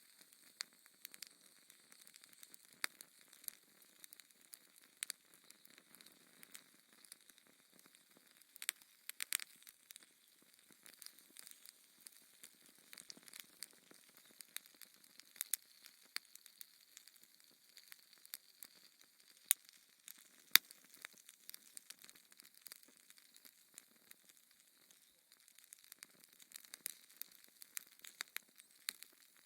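Wood fire burning in a fireplace: a soft hiss with irregular crackles and snaps, and a couple of sharper pops past the middle.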